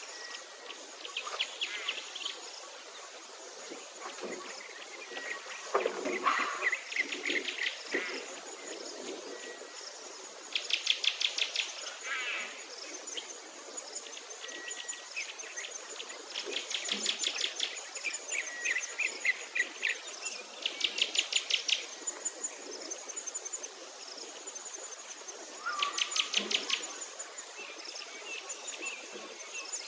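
Songbirds singing outdoors in short, rapid trilled phrases a second or two long, repeated every few seconds with pauses between. A faint high-pitched pulsing buzz runs underneath.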